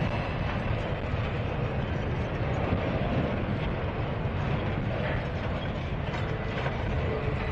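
Container-laden intermodal well cars rolling slowly past: a steady rumble of steel wheels on rail, with a few faint clicks over the rail joints.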